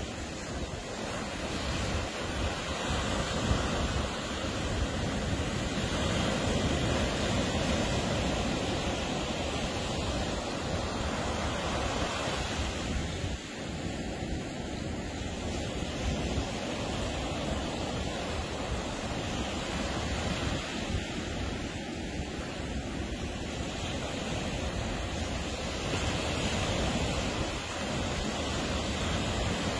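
Ocean surf washing onto a beach: a steady roar of breaking waves that swells and eases, with a dip about halfway and a rise again near the end.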